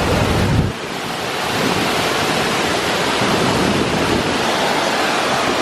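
Waterfall: a loud, steady rush of falling water and spray. A heavy low rumble on the microphone drops away under a second in, leaving the even hiss of the water.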